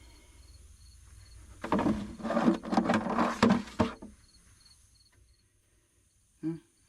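Clattering and rubbing of pipe fittings being handled as a cap is fitted onto a 4-inch artesian well pipe. It starts about two seconds in and lasts roughly two seconds. Faint insect chirps repeat steadily, and a single short knock comes near the end.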